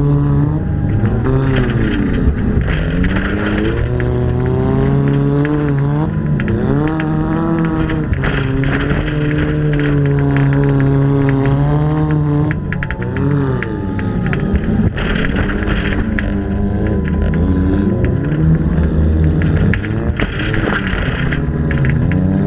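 Demolition derby car's engine heard close up from the car itself, revving up and dropping back again and again as it races around a dirt oval, with scattered sharp knocks and clatters.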